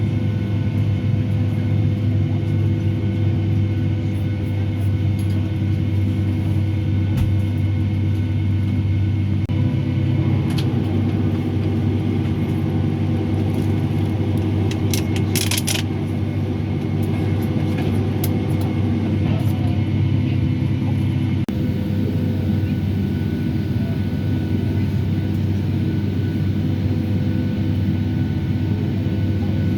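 Steady cabin noise inside a Boeing 757-300 climbing after takeoff: a constant low jet-engine and airflow rumble with several steady hums. A few faint clicks about halfway through.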